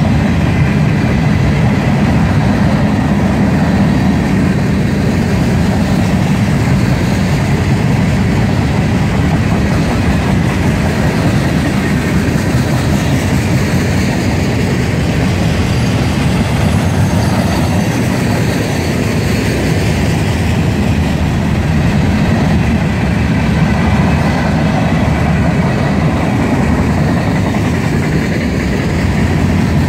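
Freight train's boxcars and covered hoppers rolling past close by: a steady, loud rumble of steel wheels on the rails that holds even throughout.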